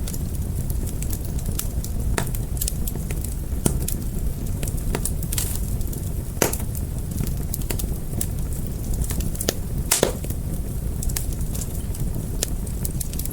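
Wood fire burning: a steady low rumble of flames with irregular sharp pops and crackles, two of them louder, about halfway through and near three-quarters of the way.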